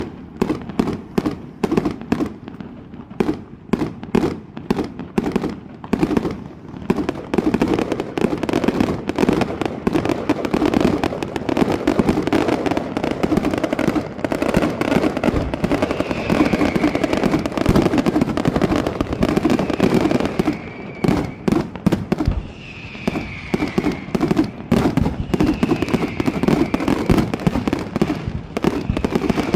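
Fireworks going off in a dense, near-continuous barrage of rapid bangs and crackles, with several falling whistles from about halfway on.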